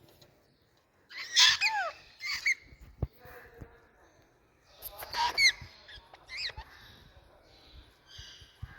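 Indian ringneck parakeet calling in two bursts of short, sharp calls that fall in pitch, about a second in and again about five seconds in. A single click comes between them.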